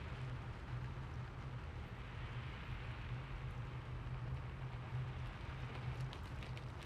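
Steady rain: an even hiss of falling rain over a constant low rumble, with a few separate drops ticking near the end.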